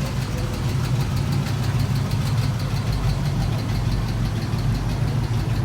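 Car engine idling steadily, with a fast, even ticking over the low hum.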